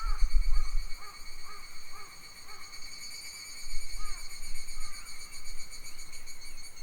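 Summer forest ambience. A bird repeats short arched call notes, several a second in the first couple of seconds and twice more later, over a steady high-pitched insect drone, with bursts of wind rumble on the microphone.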